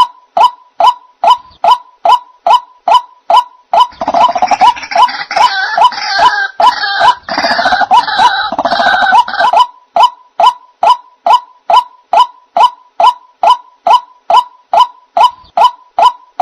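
White-breasted waterhen (ruak-ruak) calls played as a bird-trapping lure: a monotonous string of short pitched notes, about two to three a second. From about four seconds in to nearly ten, a louder, harsher croaking chorus takes over, then the steady notes resume.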